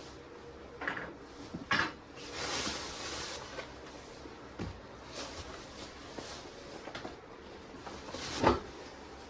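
A few knocks and clatters of things being handled, the loudest near the end, with a short rustling hiss about two seconds in.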